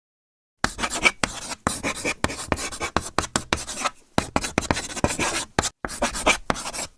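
Scribbling: a writing tool scratching across a surface in quick, uneven strokes, with a short pause about halfway through.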